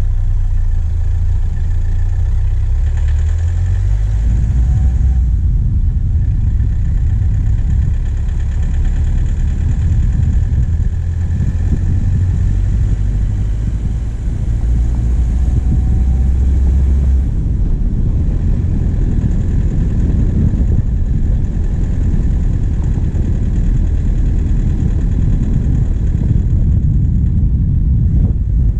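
A vehicle's diesel engine running steadily at low speed, heard close up from the bonnet, with a deep rumble. Its note shifts about four seconds in and again after about seventeen seconds.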